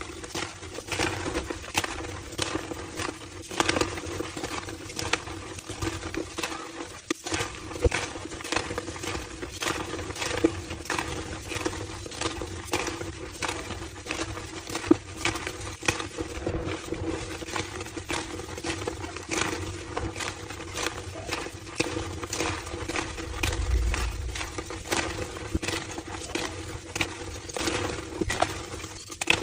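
Slabs of homemade gym chalk being crushed, a steady run of small crunches and cracks, over a faint steady hum.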